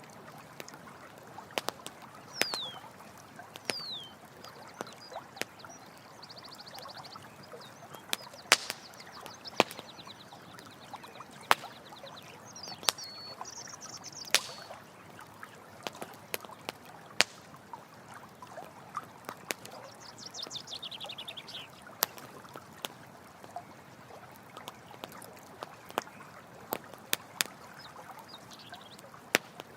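Campfire crackling with frequent sharp pops over the steady trickle of running water. High chirping calls and trills come and go several times.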